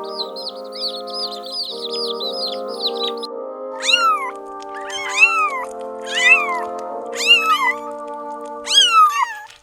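Rapid high bird chirps stop about three seconds in. A domestic cat then meows five times, each call rising and then falling in pitch, over background music with sustained chords.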